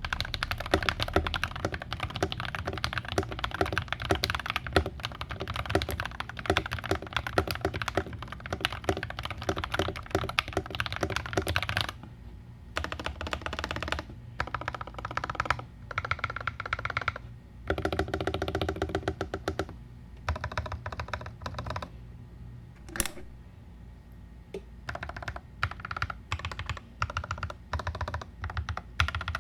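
Foam-modded Feker IK75 mechanical keyboard with lubed Akko Rose Red linear switches, an aluminium plate and PBT keycaps being typed on. Fast, continuous typing for about the first twelve seconds, then shorter runs of keystrokes with pauses between them.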